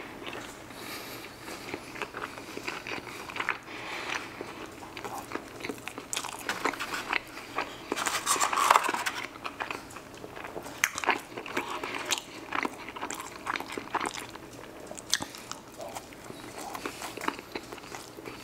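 A person eating fried chicken and cheese-covered fries close to the microphone: crunchy bites, wet chewing and mouth clicks, with a louder crunch about eight or nine seconds in.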